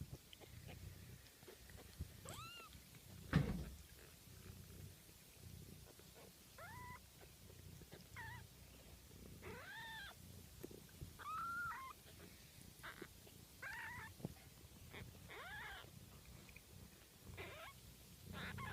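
Two-week-old kittens mewing over and over in short, high, arching squeaks, about a dozen calls, over a steady low rumble. A single soft thump comes a little over three seconds in.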